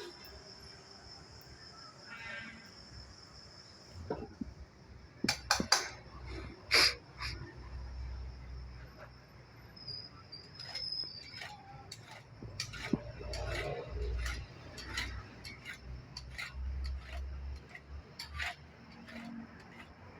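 Crickets chirping in a steady high-pitched drone, with scattered sharp clicks and knocks from about four seconds in, the loudest a few seconds later.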